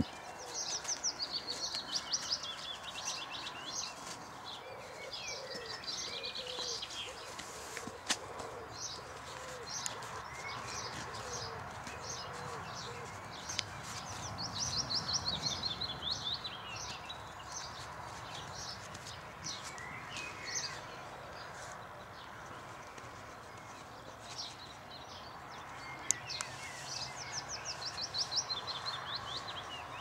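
Songbirds singing in several separate bursts of fast trilled phrases, with pauses between them.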